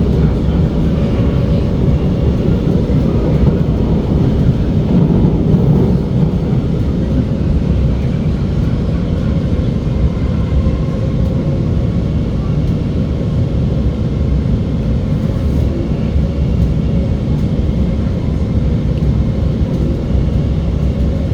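Cabin noise of an SMRT R151 metro train running between stations: a steady rumble of wheels on track with a faint steady hum from the drive.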